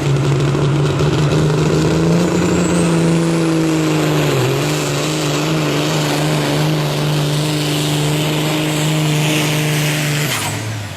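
Modified semi truck's diesel engine running hard under heavy load, pulling the weight sled at a steady, sustained pitch. Near the end the engine note cuts off abruptly.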